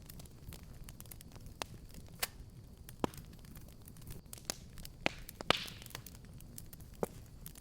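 Wood fire burning in a fireplace: a low steady rumble of flames with irregular sharp crackles and pops, the loudest pops a little past the middle with a brief hiss.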